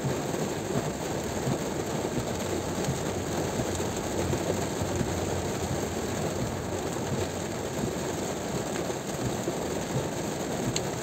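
Car driving on a highway in heavy rain: a steady rumble of tyres on the wet road mixed with the hiss of rain.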